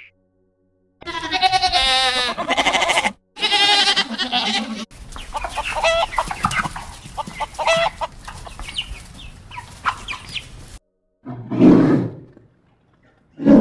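Domestic fowl calling: two drawn-out, wavering calls, then a run of short, rapid clucks. After a short gap there is one brief, low call.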